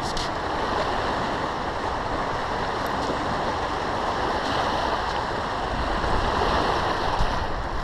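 Lake Michigan waves washing onto the beach, a steady rushing wash of water.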